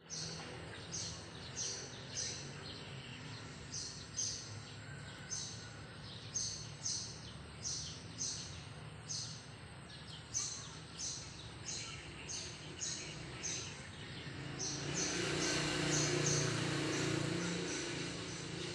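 A bird calling outdoors: a short, high chirp falling in pitch, repeated about twice a second over a steady background hiss. Near the end a louder rushing noise swells for a few seconds and then eases off.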